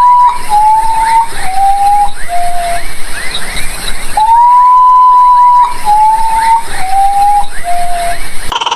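A bird's loud whistled call: one long held note, then three shorter notes stepping down in pitch, the whole phrase given twice.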